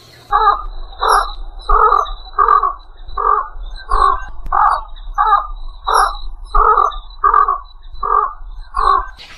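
A bird giving a long series of about thirteen harsh, evenly spaced calls, roughly one and a half a second.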